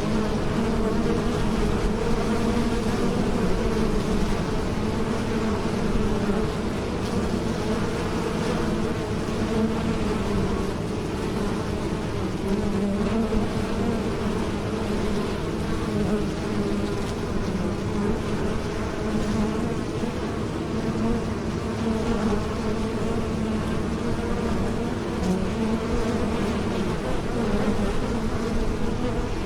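Honeybees buzzing in flight, a steady many-wing drone with a slightly wavering pitch.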